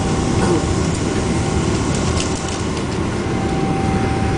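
Steady cabin rumble of a Boeing 777-200 airliner during its takeoff, heard from a seat over the wing. A faint steady whine runs through it and drops out for a moment in the middle.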